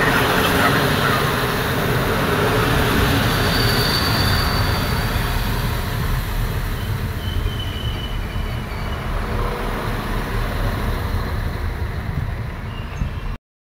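SA 137 diesel railcar passing close alongside a platform: a steady rumble of wheels and underfloor engine that slowly grows quieter, with faint brief wheel squeals a few seconds in. The sound cuts off abruptly near the end.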